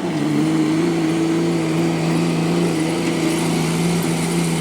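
Six-cylinder Cummins diesel in a Dodge pickup working hard under load, pulling a weight sled. Its note drops in pitch right at the start, then holds steady as the engine lugs.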